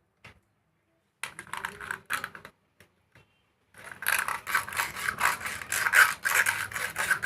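Quick clicking and scraping of something mechanical being worked by hand: a short patch a little over a second in, then a dense, busy run from about the middle on.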